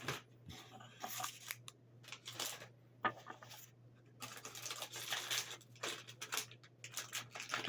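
Plastic candy wrapper crinkling and tearing as it is handled in the hands, in irregular bursts of rustling.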